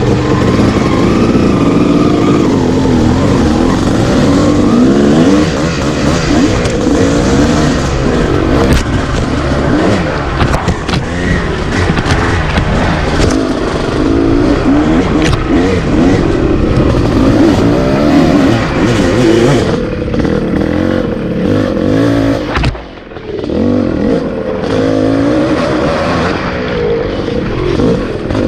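Two-stroke dirt bike engine being ridden, its pitch climbing and falling as the throttle is worked, with scattered knocks and rattles. About 23 seconds in the throttle shuts off briefly, then the engine picks up again.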